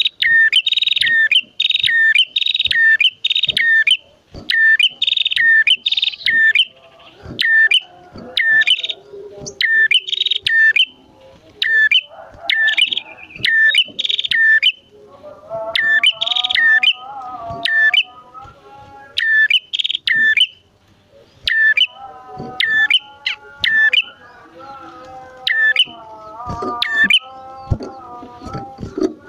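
Prenjak (prinia) birds calling: loud, sharp chirps repeated in quick runs. About halfway through, a lower, steadier warbling call joins underneath.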